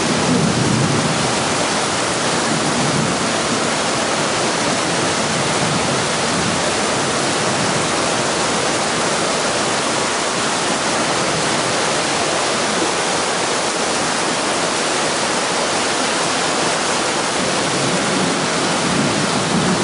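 Heavy thunderstorm downpour: torrential rain pouring onto concrete ground in a loud, steady hiss.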